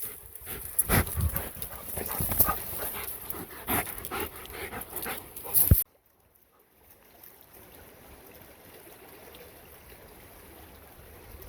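A dog panting close by, with short irregular knocks and rustles. About six seconds in it cuts off sharply, leaving a faint steady rush of running creek water.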